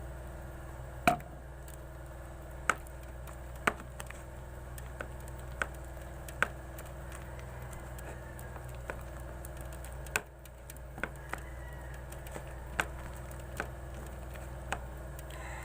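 Sticky homemade glue slime being kneaded and pulled in the hands, giving a dozen or so sharp, irregularly spaced clicks and pops as it sticks and tears apart. A steady low hum runs underneath.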